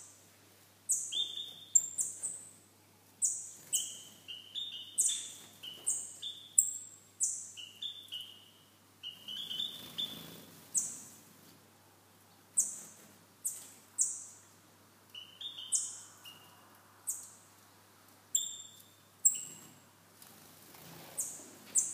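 Aviary birds calling: short, sharp, high-pitched chirps, repeated irregularly about every second or two, sometimes in quick clusters.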